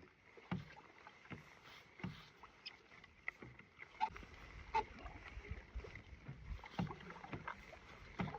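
Canoe being paddled: irregular paddle strokes and small knocks in the water, about one every second or less, with a low rumble growing in the second half.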